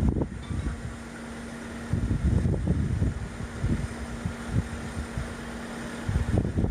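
Boat hoist's engine running with a steady hum as a yacht is lowered in its slings, with gusts of wind buffeting the microphone about two seconds in and again near the end.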